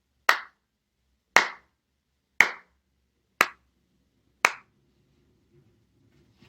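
Hand claps: five single claps, evenly spaced about a second apart.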